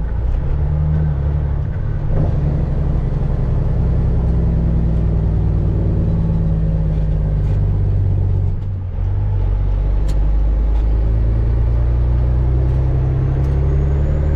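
Heavy-truck diesel engine, the Freightliner FLD120's Cat 3406E, running steadily and loudly, its pitch shifting over time, with a brief drop in level about nine seconds in.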